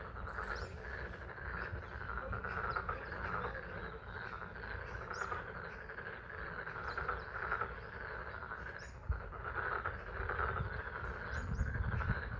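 Frogs calling in a dense, pulsing chorus at a pond during spring rain, over a low steady rumble, with a few short high chirps scattered through.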